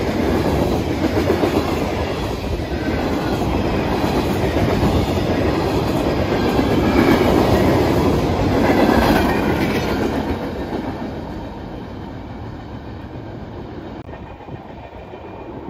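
Freight cars of a long freight train rolling past at low speed, wheels clacking over the rail joints. The sound fades away over the last few seconds as the end of the train passes.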